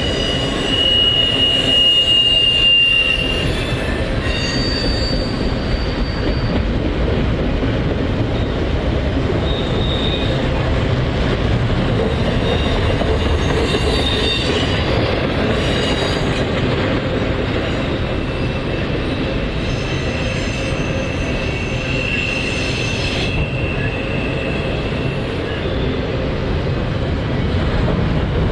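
Cars of a CSX intermodal freight train rolling past: a steady rumble of steel wheels on rail with a light clickety-clack. High-pitched wheel squeals come and go, the clearest in the first few seconds and again about two-thirds of the way through.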